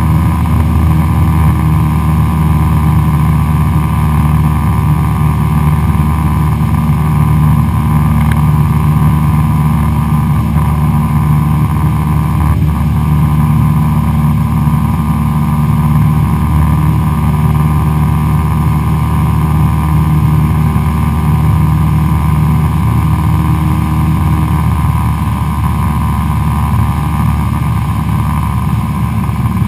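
Cessna 172SP's four-cylinder Lycoming IO-360 engine and propeller droning steadily, heard from inside the cockpit. The drone grows a little quieter in the last few seconds.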